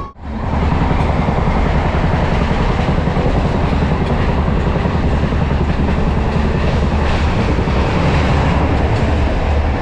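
Express passenger train running along the track: a steady, loud rumble and rattle of wheels on the rails.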